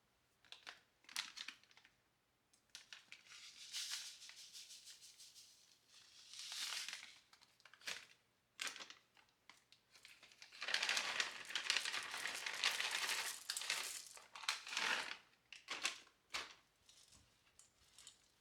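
Rustling and crinkling of packaging handled at close range in a series of bursts, the longest about halfway through, with light clicks and knocks between them.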